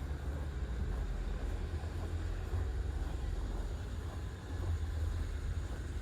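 Steady low rumble of city street ambience, heaviest in the deep bass and wavering in level, with no distinct events.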